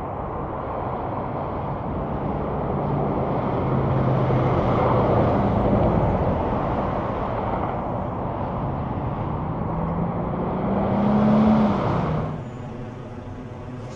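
Highway traffic: engine and tyre noise of vehicles going by, swelling twice as they pass, then dropping off suddenly near the end.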